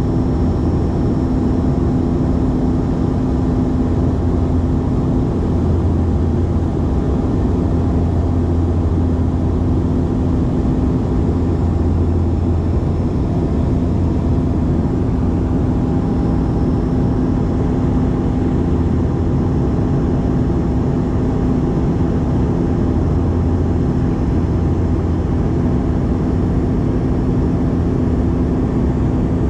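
Steady drone of a propeller airliner's cabin in flight, with the engines and propellers giving a constant low hum and several steady tones.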